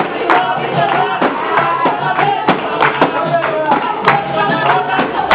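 Capoeira roda music: voices singing over hand percussion, with a tambourine-like pandeiro and sharp strikes about twice a second.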